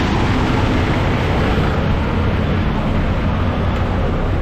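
Heavy diesel truck engine idling steadily, with a continuous low hum and a broad even noise over it.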